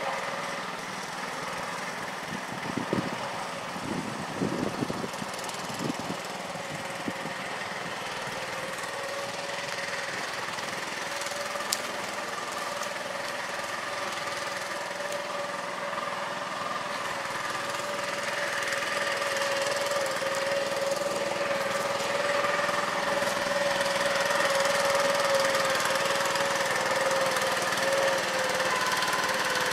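The 6.5 hp single-cylinder Honda-clone petrol engine in an old Farmall tractor runs steadily, getting gradually louder through the second half. A few short knocks sound in the first several seconds.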